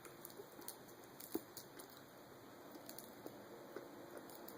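Faint chewing of a crunchy milk chocolate candy, with a few soft clicks.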